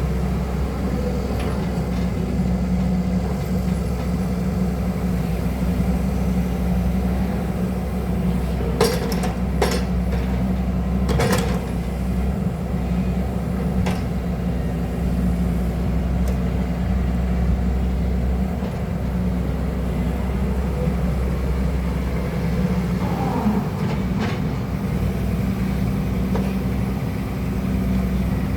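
Excavator's diesel engine running steadily, with a few sharp knocks about a third of the way in and another fainter one later.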